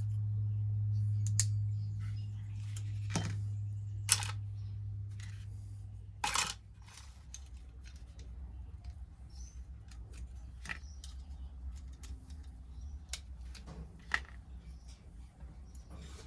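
A small electric motor hums steadily, then stops about six seconds in after a brief loud scrape. After that come scattered light clicks and taps of small metal parts being handled on the bench.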